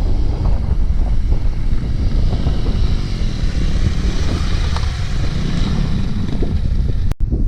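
Heavy wind rumble buffeting an action-camera microphone on a moving adventure motorcycle, with the engine running under it. The sound drops out for an instant about seven seconds in.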